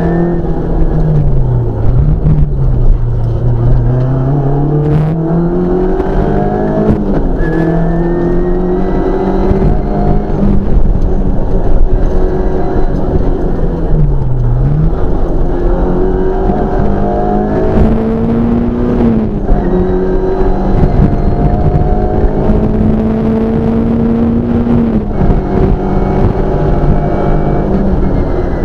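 Škoda 130 LR rally car's rear-mounted four-cylinder engine heard from inside the cockpit, revving hard and climbing in pitch through the gears, the pitch falling at each shift. About fourteen seconds in it drops sharply as the car slows at a village junction, then climbs again as it pulls away. A few sharp knocks come through the body along the way.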